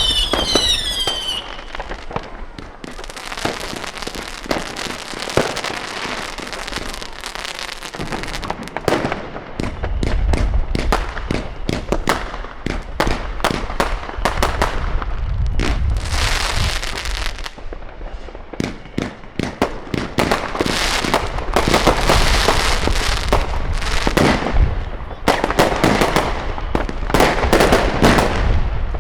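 New Year's fireworks: a dense, continuous barrage of firecracker cracks and bangs with deeper booms mixed in. It opens with several whistling effects falling in pitch, and grows heavier in the second half.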